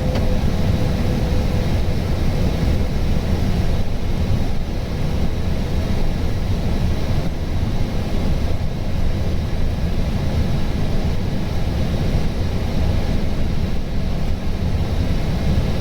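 Steady low rushing noise inside an Airbus A320 cockpit on approach: airflow and engine noise, unbroken and even.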